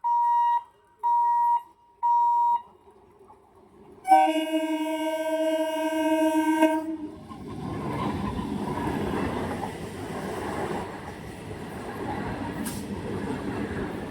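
A level-crossing warning beeper sounds three evenly spaced beeps, then a local train's horn blows one long blast about four seconds in. The train's steady running rumble follows as it passes.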